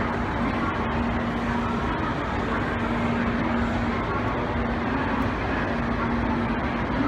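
Steady din of trains and machinery at a railway station platform: even rumbling noise with a low, steady hum and no change in level.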